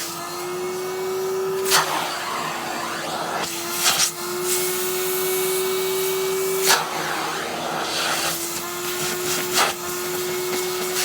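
Henry canister vacuum cleaner running with a steady motor hum and rush of air, its nozzle working over a padded winter jacket; a brief loud rush breaks in four times.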